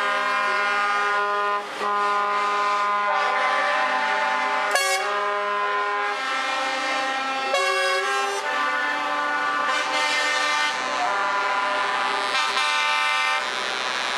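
Truck air horns sounding in long, overlapping blasts, several tones at once, the chord changing as horns stop and start, with short breaks about a second and a half in and near the end.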